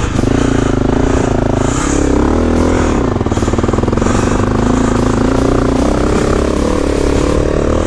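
Honda CRF250L dirt bike's single-cylinder four-stroke engine being ridden on a dirt track, revving up and down through the first few seconds, then holding a steadier, slowly rising pitch.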